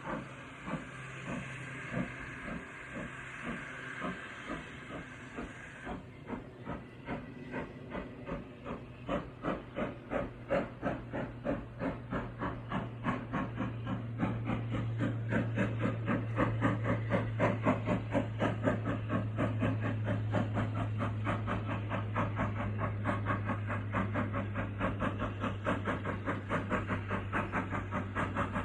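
Steam locomotive pulling away: a steady hiss of steam stops about six seconds in, then the exhaust chuffs come faster and louder before settling into a quick, even beat.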